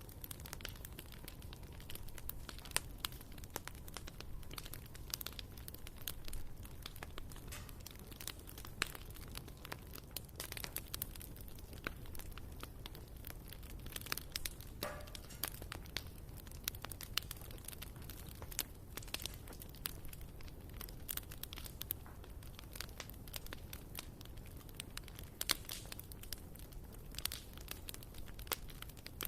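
Wood fire burning in a fireplace, its logs crackling and popping irregularly over a low steady rumble.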